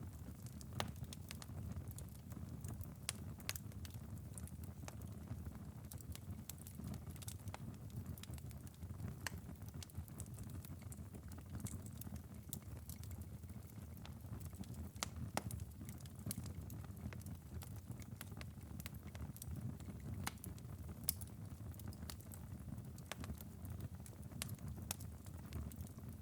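Glowing ember bed of a wood fire burned down after a long burn, crackling with scattered sharp ticks and pops over a low steady rumble.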